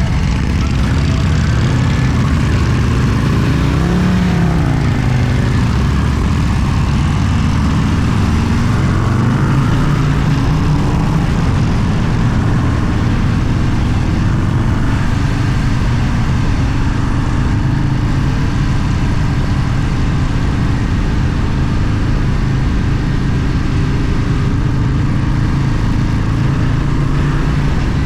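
A vehicle engine running steadily at cruising speed, with wind and road noise and a brief rise and fall in pitch about four seconds in.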